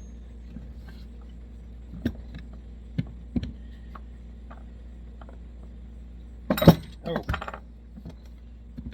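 Light metallic clinks and taps of stove parts and tools being handled on a bench, with a louder clatter about two-thirds of the way through, over a steady low hum.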